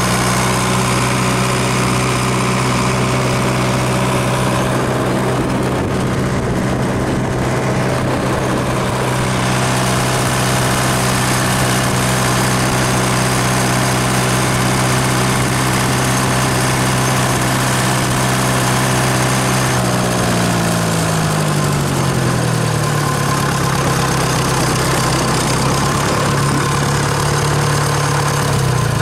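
Tractor engine running at steady revs under way, its pitch dropping about twenty seconds in as it eases off, then running steady at the lower speed.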